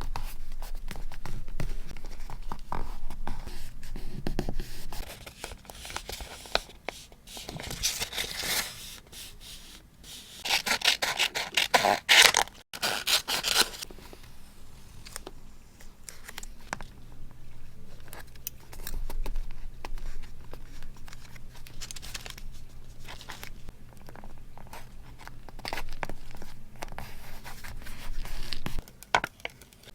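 Paper being handled for scrapbooking: scraping and rustling of paper, with louder, rougher stretches about 8 seconds in and from about 10 to 13 seconds in.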